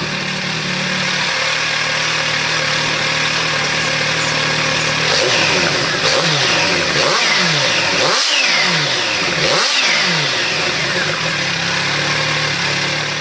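Kawasaki H2 supercharged inline-four motorcycle engine idling, then revved with about five quick throttle blips in the middle of the stretch before it settles back to idle.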